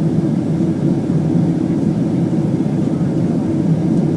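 Steady engine and airflow roar inside the cabin of a Boeing 767-300ER airliner, heard from a window seat: a constant low rumble with no sudden changes.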